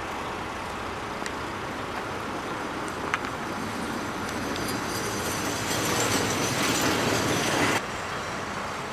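Outdoor traffic noise: a steady rushing of a passing vehicle that grows louder over several seconds and cuts off suddenly near the end.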